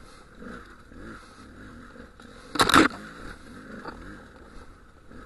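Dual-sport motorcycle engine running at low speed over rough ground, its pitch rising and falling with the throttle. A loud, brief crunch comes a little past halfway through.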